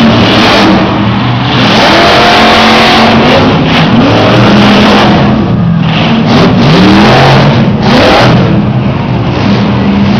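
Monster truck engines running very loud and revving hard, the pitch rising and falling several times as the throttle opens and closes.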